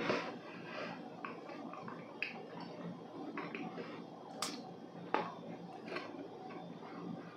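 Close-miked eating of a Korean walnut cake (hodu gwaja). A piece is bitten off right at the start, then the dry, dense cake is chewed with scattered soft mouth clicks and smacks.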